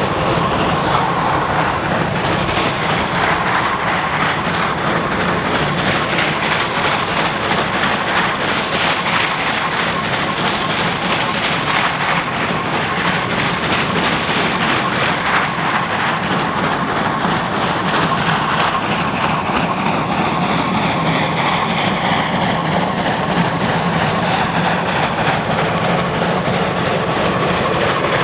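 Geared steam locomotive working steadily along the track, its stack exhaust running continuously with train noise.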